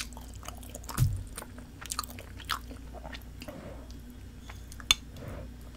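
Close-up mouth sounds of biting and chewing spicy tteokbokki (chewy rice cakes and fish cakes), with scattered wet clicks. A dull thump comes about a second in, and a sharp click comes near the end.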